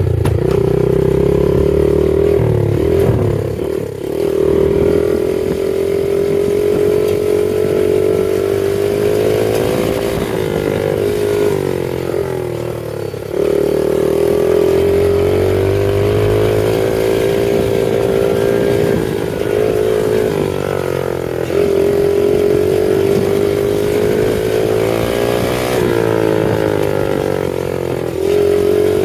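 The 70cc four-stroke single-cylinder engine of a PitsterPro FSE70 mini pit bike running under throttle. Its pitch rises and falls repeatedly as it is revved and eased off, with short drops in power every several seconds.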